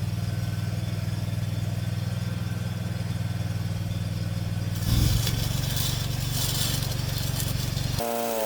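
Engine-driven welding machine running steadily. About five seconds in, a 6010 stick-welding arc is struck and crackles for about three seconds while the engine takes the load. Near the end the hum switches abruptly to a higher pitch.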